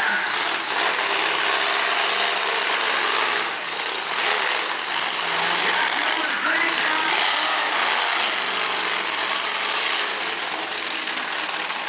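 Monster truck engine running and revving, its pitch rising and falling under a dense wash of noise.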